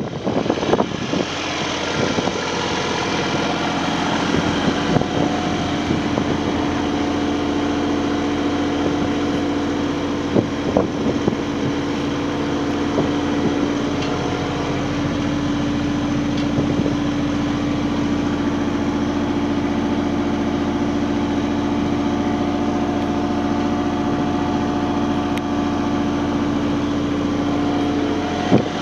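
2011 Kubota RX-306 mini excavator's diesel engine running steadily with a constant hum.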